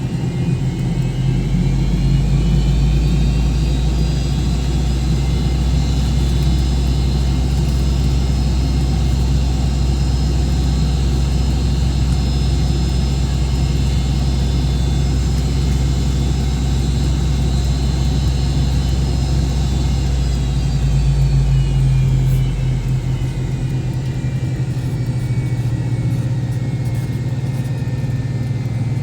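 MD-88's rear-mounted Pratt & Whitney JT8D turbofans heard from inside the cabin during taxi. The engine whine rises in pitch over the first couple of seconds with a deep rumble underneath, holds steady, then falls away about 21 seconds in as thrust is brought back toward idle.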